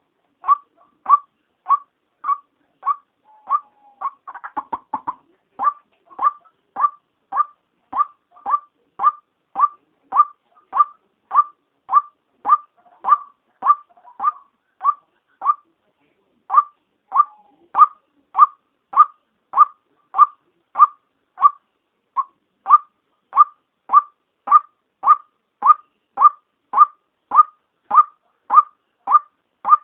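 White-breasted waterhen's female call: one short note near 1 kHz repeated monotonously, somewhat under two a second, with a short break about halfway through. A brief scratchy burst overlaps the notes about four seconds in. This is the call used as a lure for waterhens.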